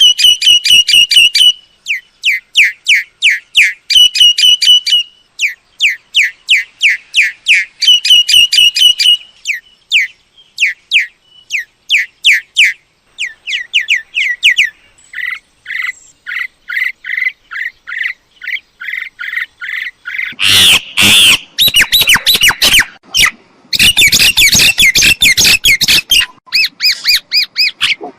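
Myna calling: rapid bursts of short, high, repeated notes, turning about two thirds of the way in to loud, harsh squawking chatter.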